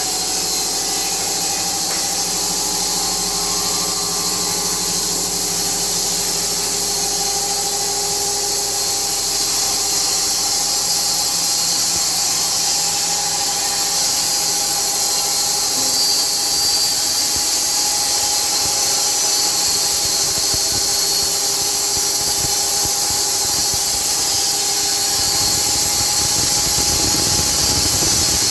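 Automatic log sawmill running: a steady loud hiss with a held whining tone, and a low rumble coming in near the end.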